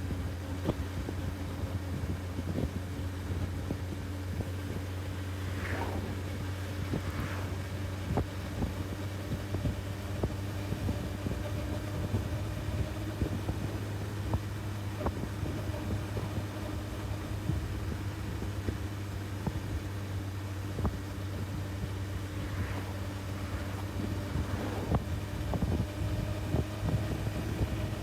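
Honda CB1000R inline-four engine running at a steady cruise, an even drone that holds its pitch, with wind noise and frequent small clicks over it.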